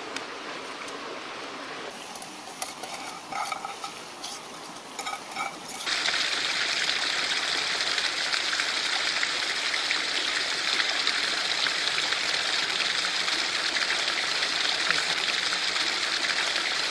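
Food sizzling in a metal pan over a wood fire: a loud, steady hiss that starts suddenly about six seconds in, after a few light clinks and knocks.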